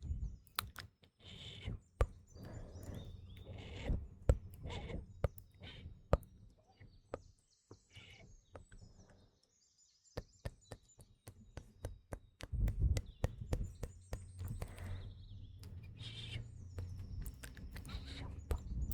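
Close-miked ASMR mouth sounds: wet clicks and smacks in quick, irregular succession, with a recording of morning birds chirping behind them.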